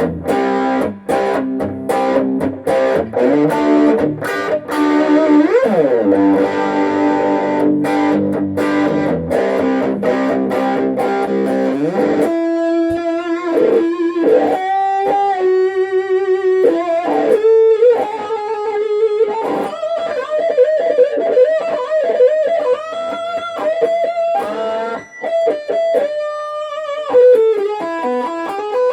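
Electric guitar, a Vintage V100 Lemon Drop, played through a Peavey Backstage Plus practice amp. For about twelve seconds it plays ringing chords, with a pitch slide up and back down around five to six seconds in. It then moves to a single-note lead line with bent notes and vibrato.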